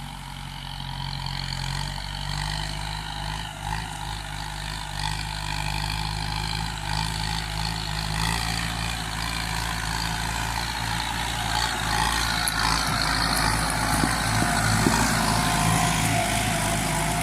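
Kubota M9540 tractor's four-cylinder diesel engine running steadily while working the field. A broad hiss over the engine grows louder in the second half.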